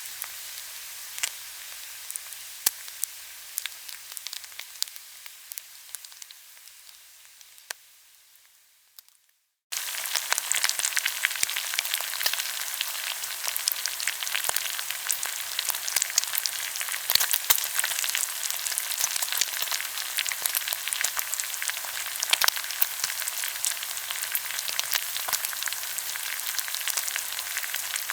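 Pork belly sizzling and crackling as it grills, with many small sharp pops of spitting fat. The sizzle fades out over the first nine seconds to a brief silence, then starts again suddenly and louder and keeps on steadily.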